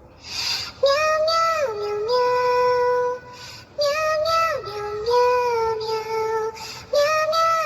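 A high singing voice in a song, holding long notes that slide down between pitches, in three phrases with short gaps. It starts with a short hiss.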